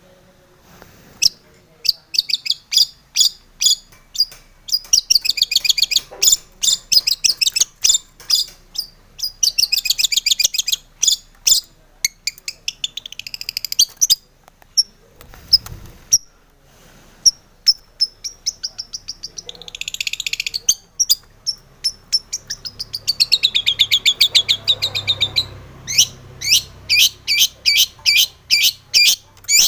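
Long-tailed shrike (cendet) singing loudly: strings of sharp, high chattering notes broken by several fast trills.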